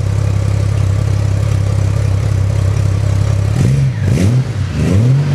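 Motorcycle engine idling with a steady, even note, then revved in three or four quick blips that rise and fall in pitch during the last couple of seconds.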